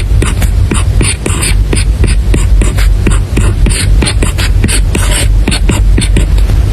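Stylus tapping and writing on an iPad screen: quick irregular taps, several a second, with short scratchy strokes between them, over a steady low rumble.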